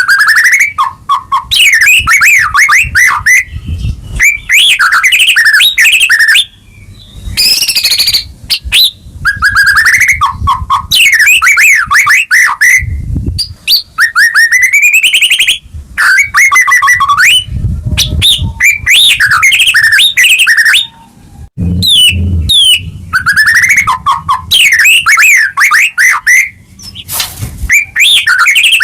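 White-rumped shama (murai batu) singing in full, energetic 'gacor' song: loud, varied phrases of rapid rising and falling whistles and trills, each lasting one to three seconds, with short pauses between. This is the kind of vigorous territorial song used to provoke a caged shama into singing.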